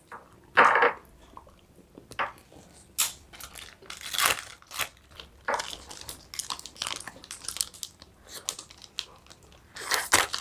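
A person eating ice cream and kulfi fast, with irregular bites and mouth sounds, mixed with some crinkling of a wrapper.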